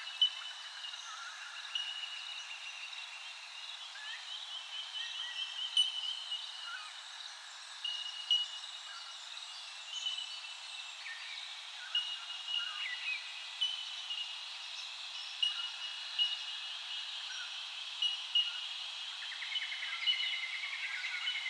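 Several birds calling together, one repeating a short high note about every second and a half to two seconds, over a faint steady hiss.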